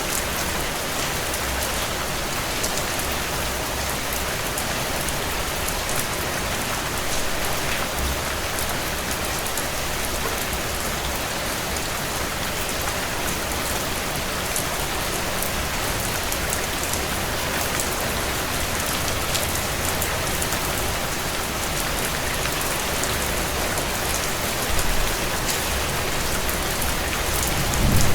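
Heavy rain drumming steadily on a tin roof, a dense patter of drops. A low rumble comes up near the end.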